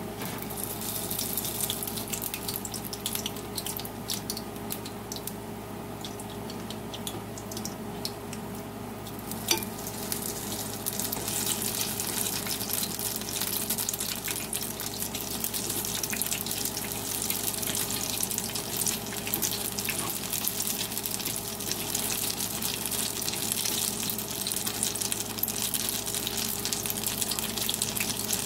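Battered broccoli deep-frying in a skillet of hot oil, a steady crackling sizzle. A single sharp click comes about ten seconds in, and after it the sizzle grows louder and denser as more battered pieces go into the oil.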